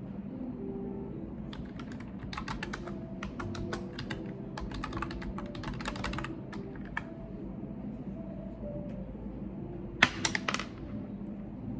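Computer keyboard being typed on in quick runs of key clicks for several seconds, then, after a pause, a short cluster of louder clicks.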